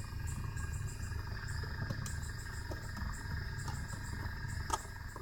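Light aircraft cockpit with the engine stopped and the electrics on: a steady electrical hum and whine with a fast, light, repeating ticking, and a single sharp click near the end.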